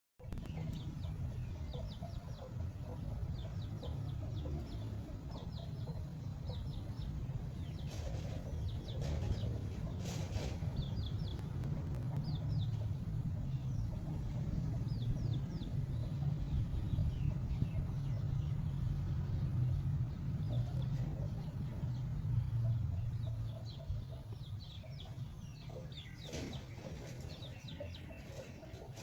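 Chickens clucking and calling in short, scattered notes over a steady low rumble, with a few brief knocks or flaps.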